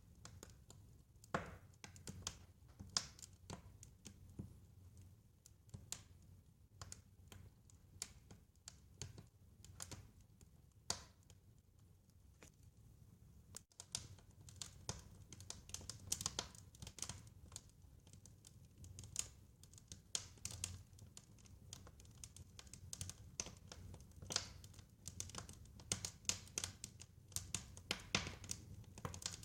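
Wood fire crackling in a fireplace: irregular sharp pops and snaps over a steady low rumble of the flames, the pops coming thicker from about halfway through.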